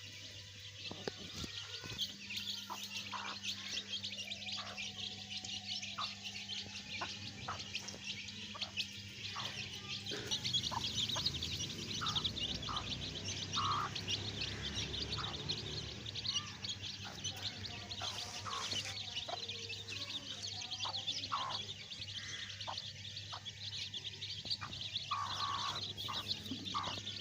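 A flock of domestic chicks peeping continuously, many high chirps overlapping into a dense chorus, over a steady low hum.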